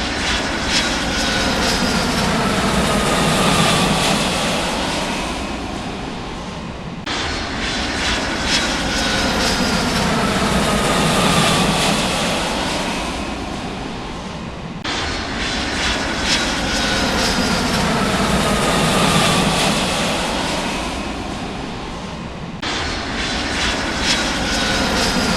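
Jet aircraft engine sound effect: steady engine noise with a slowly falling whine, looped so that it cuts and restarts about every eight seconds.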